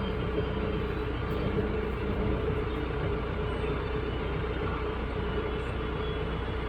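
Tractor engine running steadily, a low drone with a steady mid-pitched tone over it.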